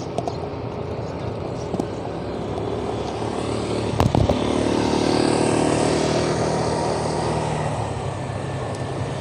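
Road traffic, with a motor vehicle's engine swelling louder as it passes from about three to seven seconds in, and a sharp knock about four seconds in.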